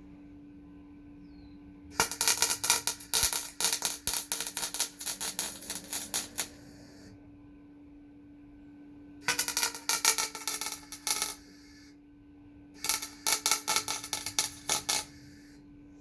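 Electric welding arc crackling and spitting in three runs of a few seconds each, over a steady low hum.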